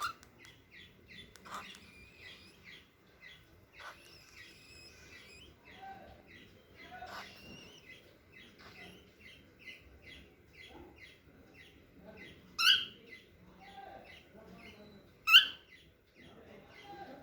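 Young cockatiel chirping: a run of short, soft chirps, a few each second, broken by two much louder calls about three-quarters of the way through and near the end.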